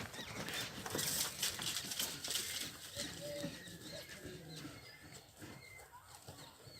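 Faint, scattered short bird calls among farmyard animal sounds, with a stretch of hissy rustling noise in the first couple of seconds.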